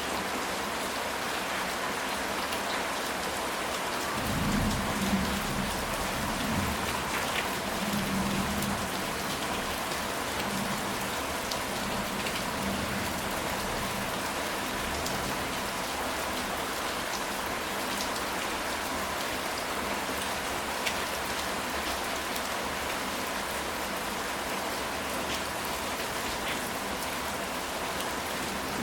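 Steady rain falling on a ceramic tile roof, an even hiss with scattered drop ticks. A low rumble of thunder rolls through from about four to nine seconds in.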